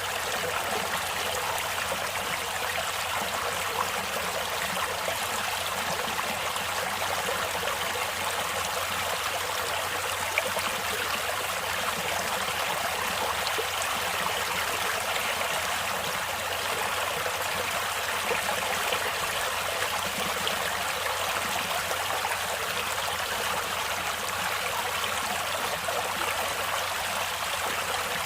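Stream water flowing and trickling steadily over rocks, an even rushing with small splashes.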